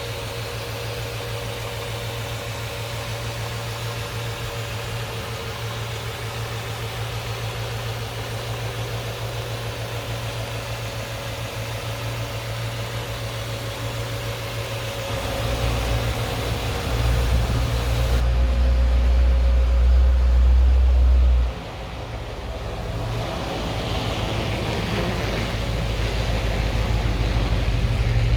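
A 1955 Chevrolet Bel Air's engine idling steadily with a low hum. About halfway through it runs louder, drops off suddenly, then builds up again near the end.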